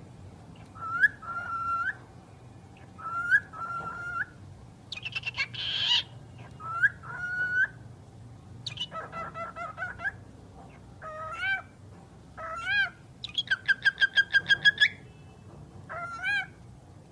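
A pet talking bird whistling and calling in short rising and wavering notes, phrase after phrase, with a fast run of about ten repeated notes a little past the middle.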